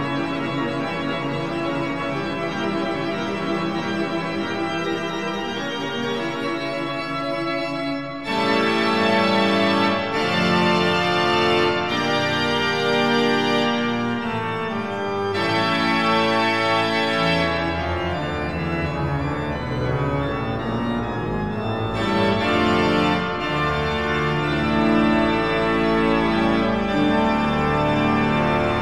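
Instrumental organ music; a fuller, louder passage comes in about eight seconds in.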